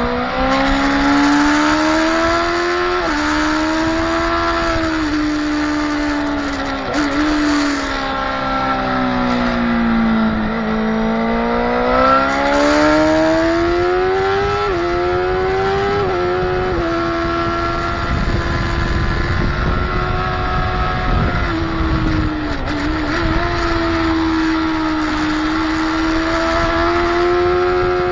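Motorcycle engine heard on board at speed on a race track, revs climbing and dropping, with sudden steps in pitch at gear changes and a long dip under braking about a third of the way in. A stretch of rushing wind noise comes in about two-thirds through.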